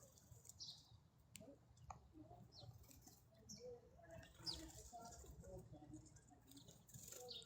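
Faint, high, short chirps from a small bird, a few scattered notes several seconds apart, with a couple of light clicks.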